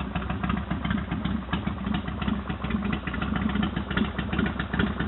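S&S Super 107-cubic-inch V-twin motorcycle engine idling steadily through a Thunder Header exhaust, with a fast, uneven pulsing beat.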